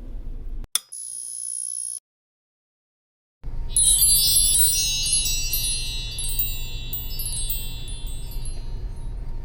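High chime-like tinkling, many bright ringing tones that start together a few seconds in and fade slowly, over a steady low hum. Before them, a click and a short high tone are cut off into a second or so of dead silence.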